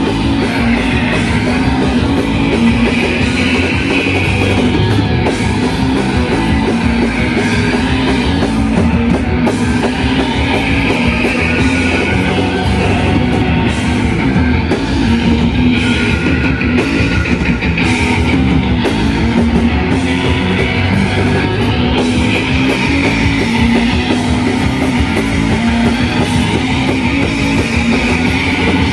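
A rock band playing live, loud and dense: heavily distorted electric guitars over bass and a drum kit, in a shoegaze style.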